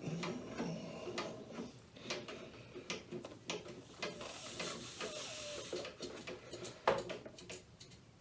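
Toilet being rocked back and forth on its new riser to seat it: scattered clicks, knocks and creaks, with a soft hiss for a couple of seconds in the middle.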